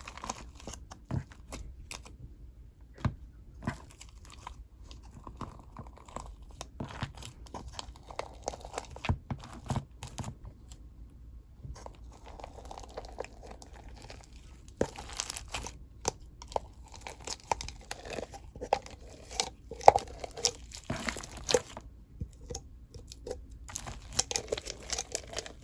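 Soft, squishy clay slime being squeezed and stretched by hand, giving irregular small crackles, clicks and pops.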